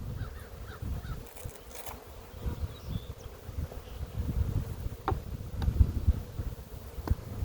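Honey bees buzzing around an open hive under inspection, with a faint steady hum over an uneven low rumble. A few short sharp clicks come about five and seven seconds in.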